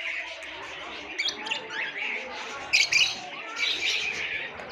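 A flock of small aviary birds chirping and twittering together, many short high calls overlapping, with louder clusters of calls about a second in and again near the three-second mark.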